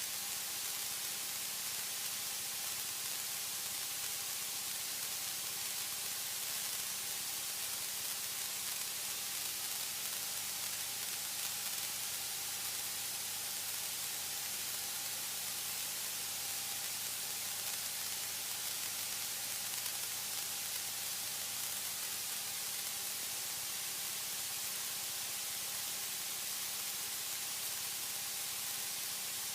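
Steady static hiss on the cockpit intercom audio feed, with a faint steady hum underneath and no other sounds.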